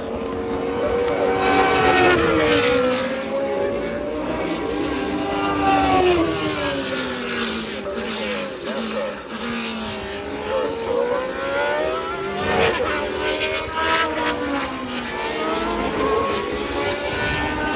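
Historic Formula One race cars passing at speed, several engines heard at once. Their pitch repeatedly rises and falls as the cars accelerate, shift and go by.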